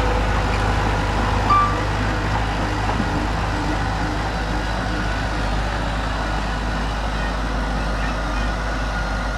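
Heavy diesel earthmoving machinery running steadily with a deep engine rumble and mechanical clatter. A short high beep sounds about a second and a half in.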